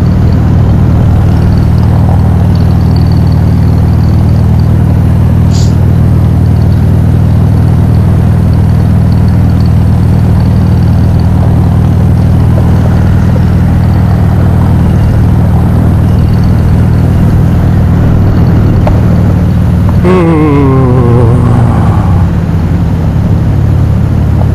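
Motorcycle cruising steadily on the open road, its engine and wind noise making a constant low rumble. Near the end a brief falling tone cuts through.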